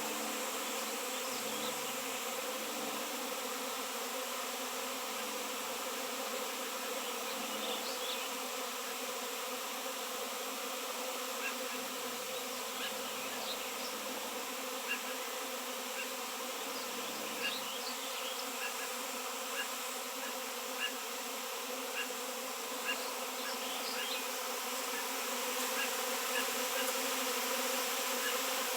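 Many honey bees buzzing together in a steady, continuous hum.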